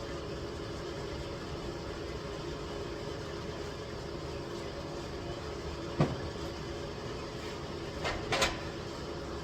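A steady mechanical hum with a sharp knock about six seconds in and two lighter clunks near the end.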